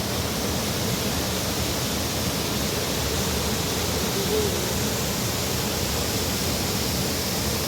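Steady rushing of a mountain stream in flood after a cloudburst, an even, unbroken noise.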